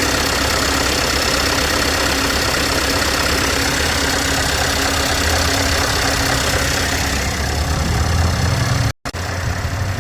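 Scania R580 truck's V8 diesel engine idling steadily. Its low rumble grows stronger shortly before a brief dropout near the end, and after that it is quieter.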